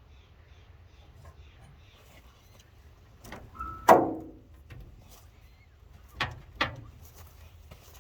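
One loud thump that rings away briefly, preceded by a short squeak. Two sharper knocks follow about two seconds later, close together.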